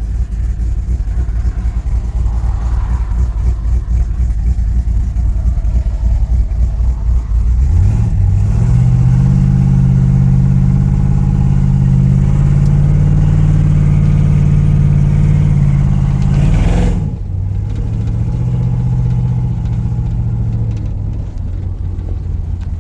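Cammed LS2 6.0 L V8 in a C10 pickup, exhaling through Carven Type R mufflers: a lumpy low rumble, then the engine revs up about a third of the way in and holds a loud, steady high note under acceleration. About three-quarters through the note drops suddenly as the throttle closes, and it runs on at a lower pitch, easing off.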